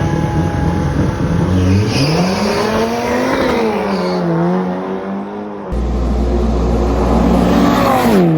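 Drag racing car engines under hard acceleration, the pitch climbing and falling as they rev through the gears. About two-thirds of the way through, a different engine sound takes over abruptly; it rises, then drops steeply in pitch near the end.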